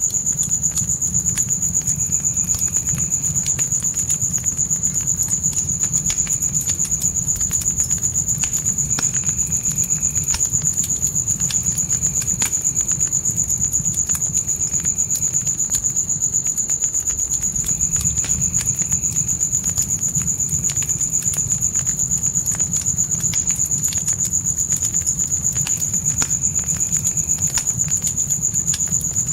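Crickets trilling in one unbroken high-pitched tone, over a crackling fire with scattered small pops and a low rumble.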